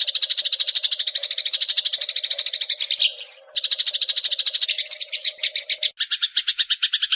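Eurasian tree sparrow (burung gereja) giving its agitated fighting chatter: a fast, steady run of repeated chirps, well over ten a second. About three seconds in the run breaks for a moment with one higher rising note, and near six seconds the chatter picks up again in a slightly different tone.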